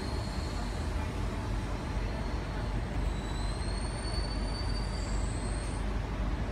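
Steady rumble and hum inside a carriage of a Sydney Trains Tangara electric train. A faint high whine rises slightly about three seconds in and stops near the end.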